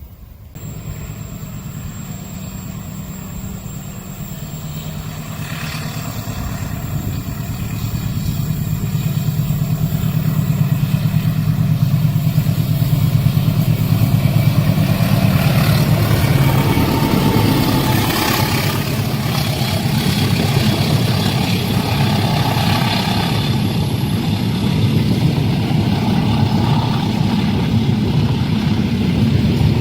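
A train passing a level crossing. A steady low rumble begins abruptly, builds over about ten seconds, then holds, with faint thin squealing in its second half.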